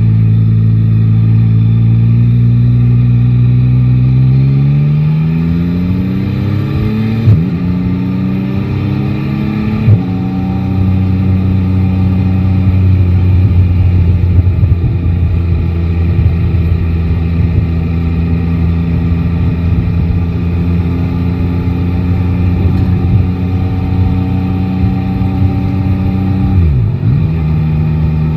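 Yamaha Tracer 9 GT's three-cylinder engine accelerating from a steady note, its pitch rising through two quick upshifts, about seven and ten seconds in, then running steadily at cruising speed. Near the end the engine note briefly drops and recovers.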